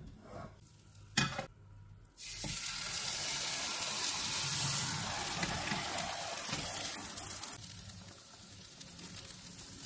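A couple of light knocks, then about two seconds in a loud sizzle starts suddenly as the flipped bread pudding's uncooked side lands in the hot frying pan. The sizzle holds steady and eases to a quieter frying hiss near the end.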